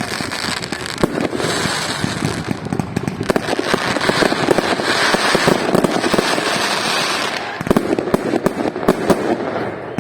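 Fireworks display: dense crackling from exploding shells, densest in the middle, with sharp cracks and a few heavier bangs, one about a second in and one near the end.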